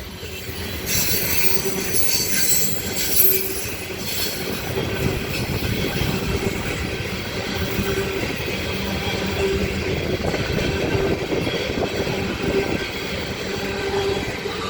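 Freight train cars rolling past on the rails with a steady rumble, steel wheels squealing high for a few seconds from about a second in.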